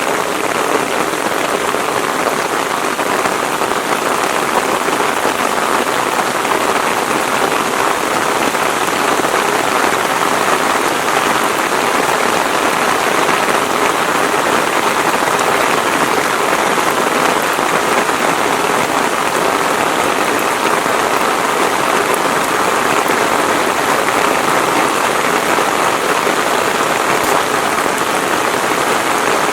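Steady heavy rain, falling evenly without letup.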